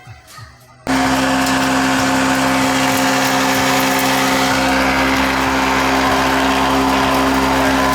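Homemade leaf chopper driven by a second-hand 200-watt washing-machine motor, running steadily: a loud hum with a whirring blade, cutting in abruptly about a second in.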